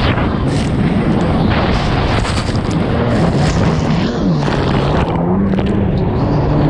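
1999 Sea-Doo XPL personal watercraft's two-stroke engine running, its pitch rising and falling repeatedly as the throttle is worked, under heavy wind buffeting on the microphone.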